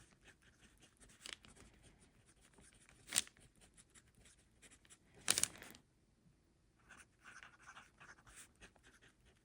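Fountain pen nib writing on paper: faint, scratchy strokes coming in short runs, with two louder brief knocks about three and five seconds in.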